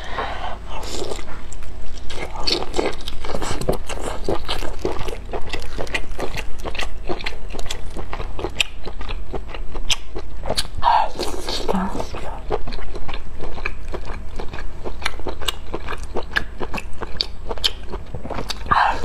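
Close-miked biting and chewing of glazed ring-shaped sausage: bites followed by steady wet chewing with many small mouth clicks.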